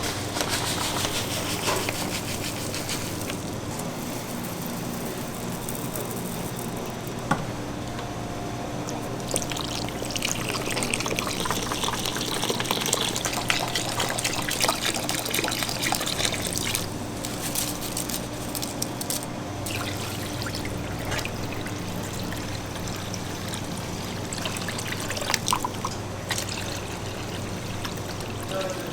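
Liquid pouring and trickling over a steady mechanical hum, with a few scattered clicks and knocks.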